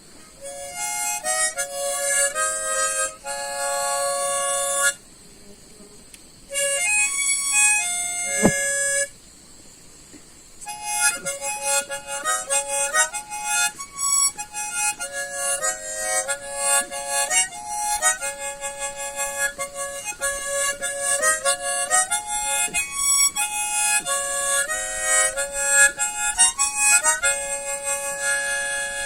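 Harmonica played solo: a melody in chords, several reeds sounding at once. It comes in three phrases with short breaks about five and nine seconds in.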